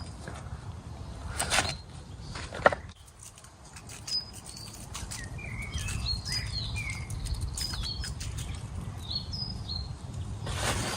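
Small birds chirping in short repeated calls, with a couple of sharp knocks in the first three seconds over a steady low rumble.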